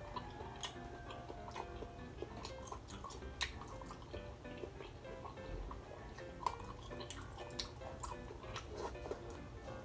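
Wet, close-up chewing and lip-smacking clicks of a person eating sea snail meat, over soft background music.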